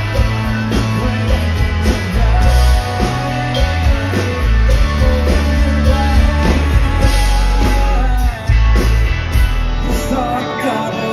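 Live rock band playing loudly, with a singer, electric guitar and a heavy bass and drum low end.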